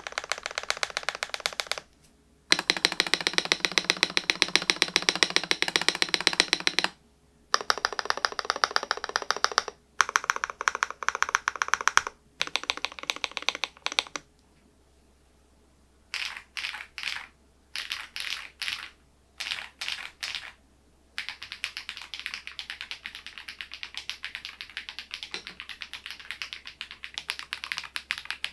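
Typing on the SMURVE80 retro mechanical keyboard's switches, played without its solenoid module: runs of fast keystrokes a few seconds long with short pauses between them, a stretch of short bursts in the middle, then steady typing through the last third.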